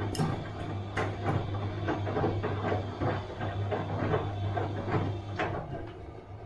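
Bosch washing machine running a wash cycle: a steady motor hum with irregular clunks and knocks of laundry tumbling in the drum, one or two a second, easing off near the end.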